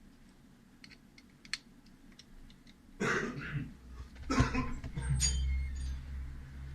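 A person coughing twice, loud and harsh, after a few seconds of faint clicking. Then a low steady hum starts and keeps going.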